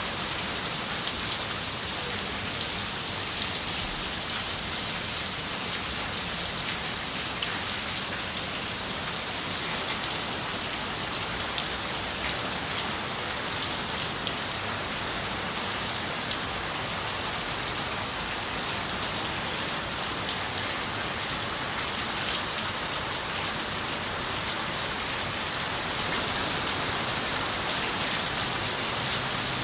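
Steady rain on a window, an even hiss with scattered drops ticking against the glass, growing a little louder near the end.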